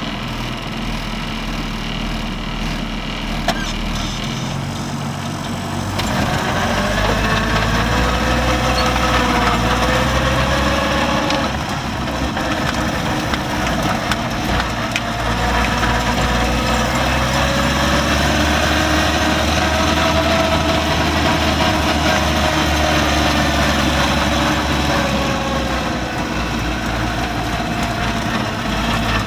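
Series Land Rover running and driving, its engine getting louder about six seconds in, with a whine that rises and falls in pitch as the speed changes.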